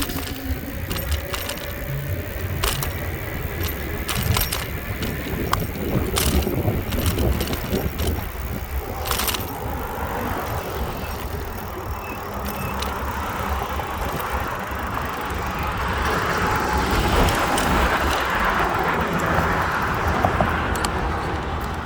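Bicycle ride heard from a bike-mounted phone: constant wind rumble on the microphone with scattered clicks and rattles from the bike. A broad rushing noise swells and fades again late on.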